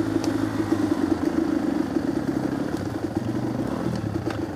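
Off-road motorcycle engine running steadily at low revs, a fast even pulsing throb.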